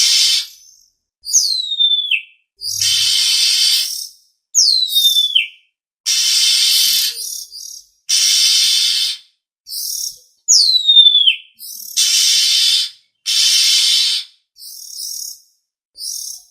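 Oriental magpie-robin (kacer) lure calls: harsh, rasping calls about a second long alternating with a clear, steeply falling whistle, which comes three times, and a few short chirps.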